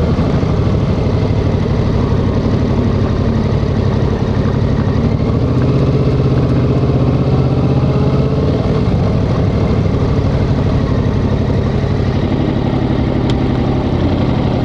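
Yamaha XSR700's 689 cc parallel-twin engine running at low, steady revs, its pitch rising a little around the middle and easing back.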